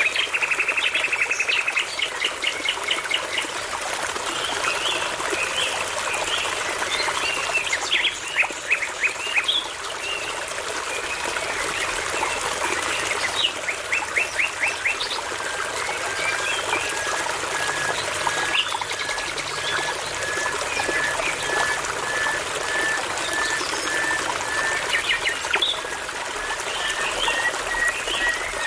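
Songbirds singing over a steadily trickling brook, in varied phrases of fast repeated notes and trills. About halfway in, a long series of evenly spaced piping notes begins and slowly rises in pitch.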